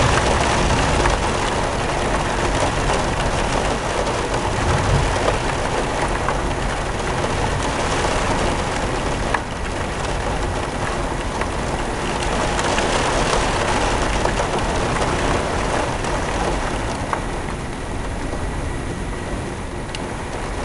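Heavy rain pouring down in a steady wash of noise that swells and eases, slackening a little near the end.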